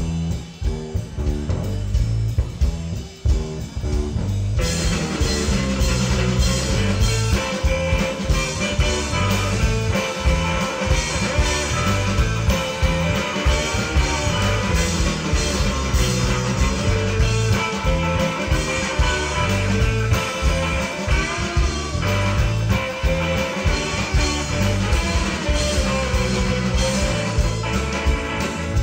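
A rock trio playing live, with electric guitar, bass and drums. It starts sparse, with bass and drums, and the full band with guitar comes in about four and a half seconds in.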